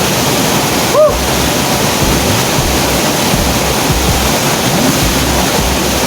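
River water rushing over a small waterfall, a loud steady rush, with wind buffeting the microphone. About a second in, a brief squeak rises and falls in pitch.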